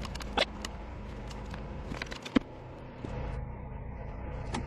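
Scattered light clicks and taps, with one sharp knock about halfway through.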